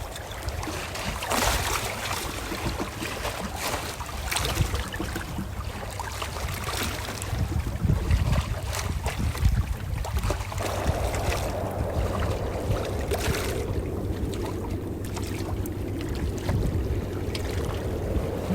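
Calm ocean waves washing in: a continuous low rumble with a wash of water that swells and eases, and short splashes scattered through it.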